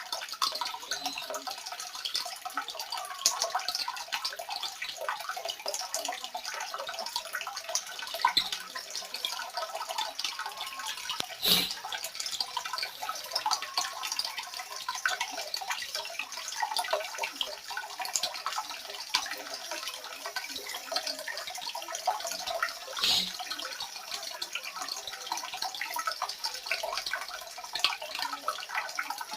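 Water running and dripping, a steady crackly splashing with two sharp knocks about a third and three quarters of the way through.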